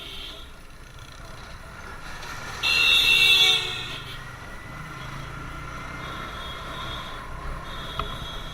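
A vehicle horn honks once, for about a second, a little under three seconds in; it is the loudest sound here. Underneath, the TVS Apache RTR 160's single-cylinder engine and road noise run steadily as the motorcycle rides along.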